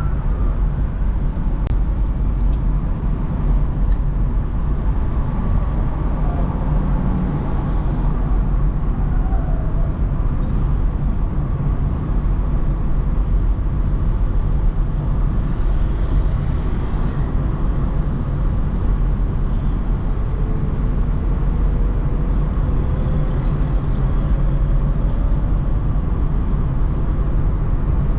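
Steady low rumble of a car driving through city traffic: engine and tyre noise with surrounding road traffic, even throughout. A faint rising whine comes in over the second half.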